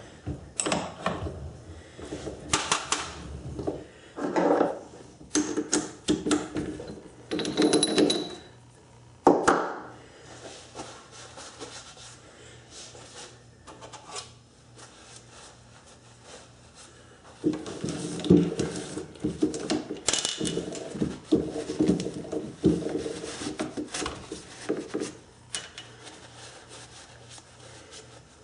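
Irregular clicks, knocks and clatter of hard objects being handled at a metal lathe, in two busy spells with a quieter stretch in between.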